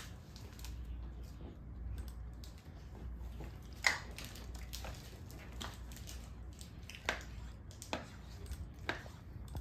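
People chewing crunchy chocolate-ball snacks: faint crunches and a few small sharp clicks, the loudest about four seconds in, over a low room hum.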